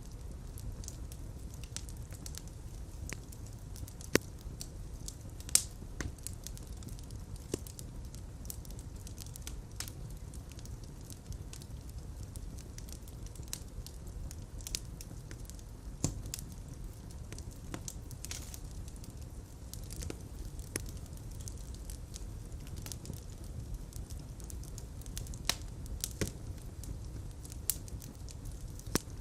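Fire crackling in a fireplace: scattered sharp pops and snaps over a steady low rumble of flames, with two louder pops about four and five and a half seconds in and a cluster of pops near the end.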